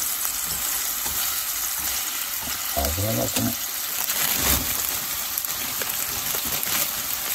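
Chopped meat sizzling steadily in a hot non-stick frying pan on a gas stove. Past the middle, a load of cut cabbage and carrot is tipped into the pan on top of it.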